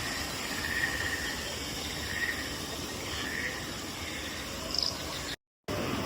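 Chirping creature calls, a few short chirps spaced about a second apart over a steady background hush, with the sound cutting out briefly near the end.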